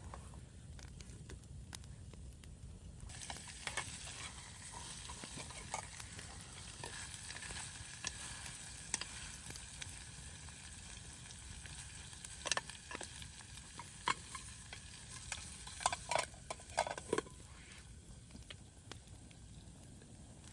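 A sizzling hiss that comes in suddenly about three seconds in, with scattered clicks and knocks that grow louder and closer together toward the end.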